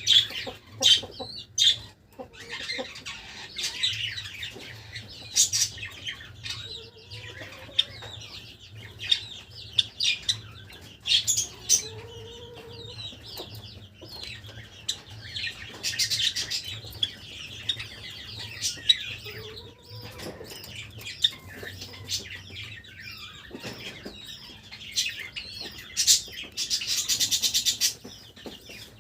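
Java sparrows chirping and calling in short repeated notes and trills, with wing flutters and small clicks among them.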